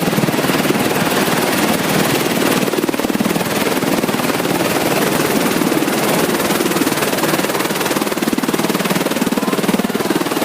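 Helicopter in flight: a loud, steady drone with a fast even pulse from the rotor and engine.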